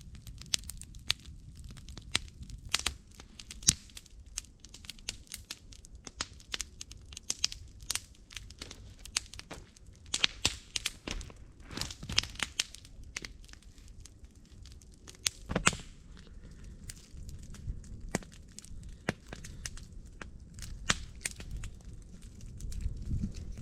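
Wood campfire crackling, with irregular sharp snaps and pops over a low steady rumble, thickest about halfway through.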